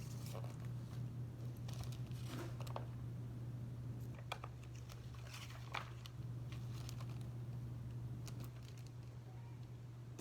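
Scattered light clicks, taps and crinkling from things being handled on a counter, over a steady low hum.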